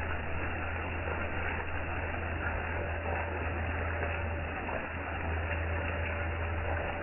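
Steady hiss of falling rain, with a constant low hum underneath.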